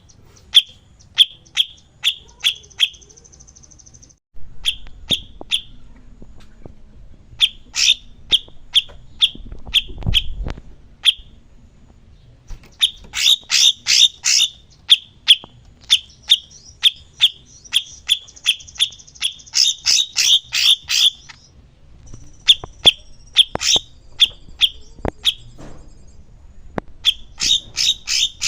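A songbird calling in runs of short, loud, sharp chip notes, two to four a second, broken by brief pauses, with a short buzzing trill about two seconds in and a longer one past the middle.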